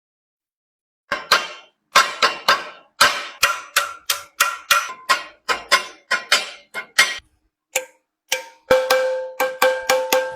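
Hammer blows on a galvanized sheet-iron water ladle, in quick uneven runs of about three a second, starting about a second in. In the last seconds the strikes take on a steady metallic ring.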